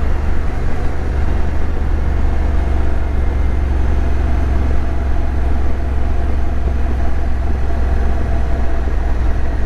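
Motorcycle engine running at a steady cruising speed, with wind and road rush on the microphone.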